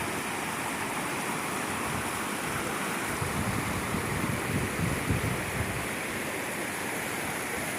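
Water of a mountain stream rushing steadily at the springs that feed a waterfall. From about three to six seconds in, gusts of wind buffet the microphone with low rumbles.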